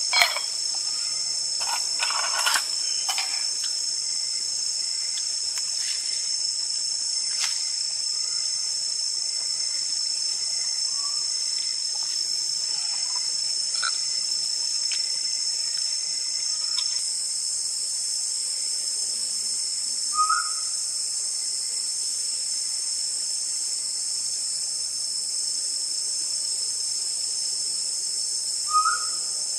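Steady, high-pitched chorus of night insects calling without a break. A few sharp knocks sound in the first three seconds, and two short chirps come about twenty seconds in and near the end.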